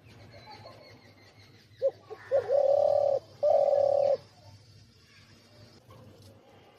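Dove cooing: two short lead-in notes followed by two long, steady, low coos, each just under a second.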